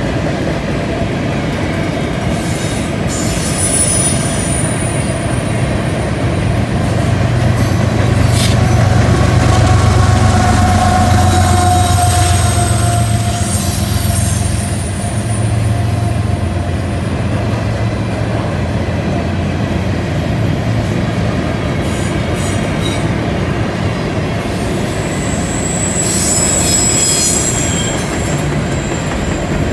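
Freight train of covered hopper cars rolling past on a curve, the wheels rumbling steadily over the rails. High wheel flange squeals come and go: a few seconds in, again around the middle, and near the end.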